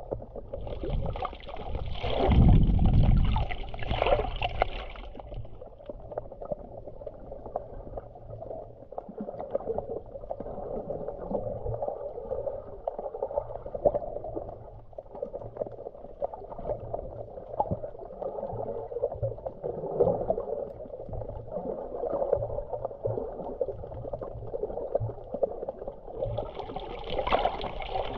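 Sea water sloshing and gurgling at the shore. There are hissing surges of a wave washing in a second or so in and again near the end, and a loud low rumble about two seconds in.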